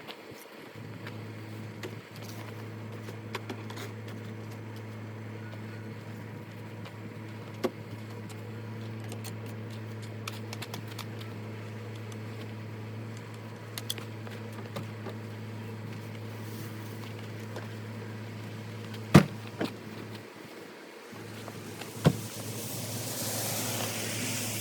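A car running with a steady low hum, broken by a few sharp knocks, the loudest about 19 and 22 seconds in, and a hiss that swells near the end.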